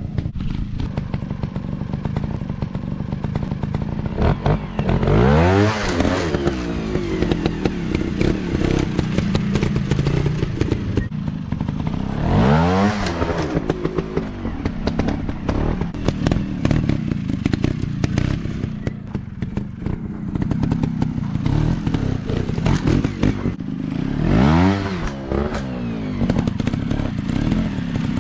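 Trail motorcycle engine running, revved up sharply and back down three times, with rapid clattering throughout.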